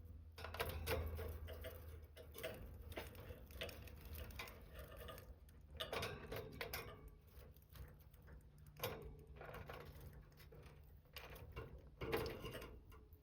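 Budgerigar moving about on the floor of its cage: irregular light ticks and scratches from its beak and feet, in little clusters.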